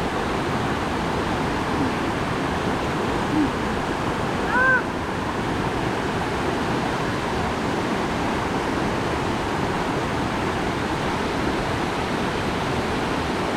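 Waterfall rushing steadily, an even, unbroken noise of falling water. A brief high vocal exclamation cuts through it about four and a half seconds in.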